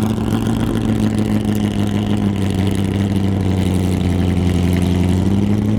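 Ferrari Testarossa's flat-twelve engine running at a steady idle, its pitch sagging slightly in the middle and picking back up near the end.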